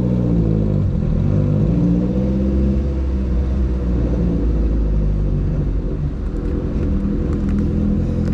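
Car engine and road rumble heard from inside the cabin as the car drives off, the engine note rising and falling a few times over a steady deep rumble.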